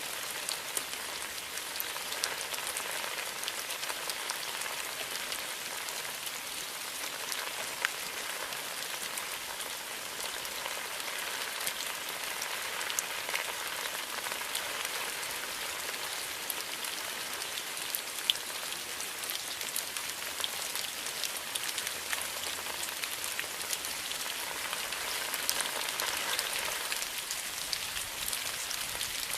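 Steady rain falling, with many individual drops pattering and ticking close by.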